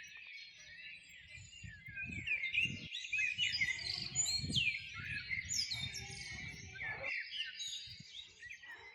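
Many small birds chirping and twittering at once in dense overlapping calls, many of them short falling notes, over an intermittent low rumble.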